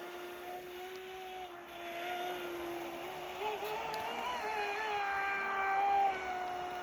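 RC model boat's motor running with a steady whine. The pitch wavers a little around the middle and goes slightly higher as it speeds up, then settles back.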